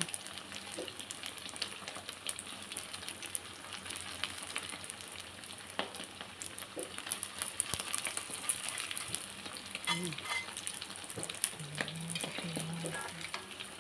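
Pieces of glutinous rice cake sizzling in hot oil in a wok, with a steady hiss and many small crackles. A metal spatula scrapes the pan and turns the pieces.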